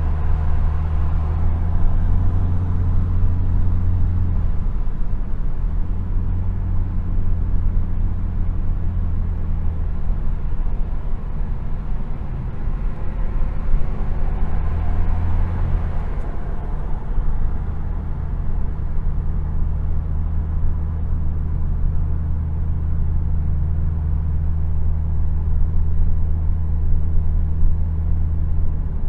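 Car engine running at low revs: a steady low drone that shifts a little in pitch a few times.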